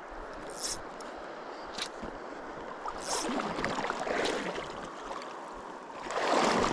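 Shallow stream running over a riffle, a steady rush of water with a few short swishes and a louder surge of sloshing water near the end.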